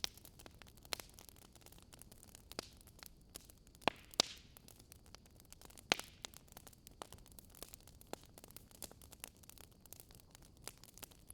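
Wood fire crackling in a fireplace: irregular small crackles over a soft hiss, with a few sharper pops about four and six seconds in.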